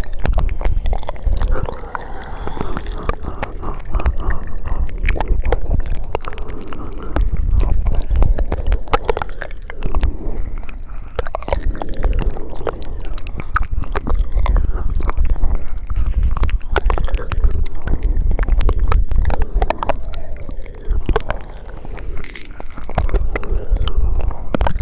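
ASMR mouth sounds: a steady stream of wet clicks and smacks, with a low rumble underneath.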